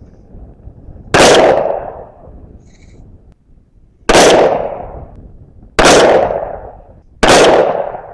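Four 5.56 rifle shots from a Del-Ton AR-15 firing FMJ rounds. The first comes about a second in, the next about three seconds later, and the last two follow at gaps of about a second and a half. Each crack is followed by an echo that dies away over about a second.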